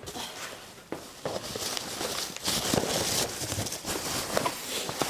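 Shopping bag rustling and crinkling with small knocks as snacks and clothing are handled and taken out, louder from about halfway through.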